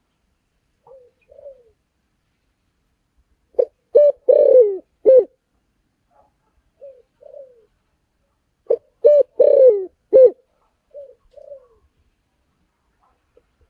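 Spotted dove cooing: two phrases about five seconds apart, each a few short coos and one longer falling coo, with softer short coos in between.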